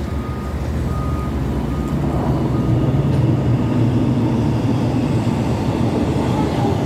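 A train passing, a steady low rumble that builds over the first few seconds and then holds.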